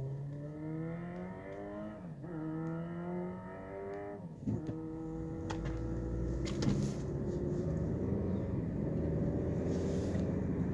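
Car engine accelerating, its pitch rising and then dropping at two gear changes about two and four seconds in, then running steadily at a higher speed.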